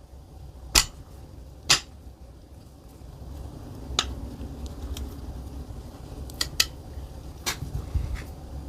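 Small metal parts and tools being handled on a workbench: about six sharp clinks and clicks over a low rustle of handling.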